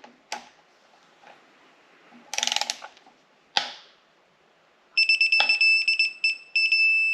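A ratchet clicks briefly, then a digital torque wrench gives a high electronic beep, broken by short gaps, for nearly three seconds from about five seconds in: the signal that the cylinder-head bolt on a Subaru EJ25 has reached its set torque of 22 ft-lb.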